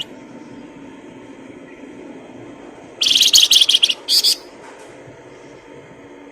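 A songbird gives a loud, fast, high-pitched trill of rapid notes for about a second, about three seconds in, followed by a short second burst, over a steady low hum.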